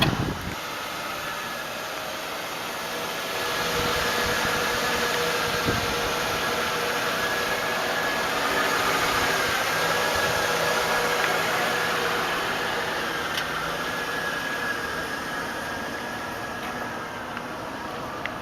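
A 2000 Lincoln Town Car limousine's 4.6-litre V8 idling steadily. It grows louder a few seconds in and eases off again near the end.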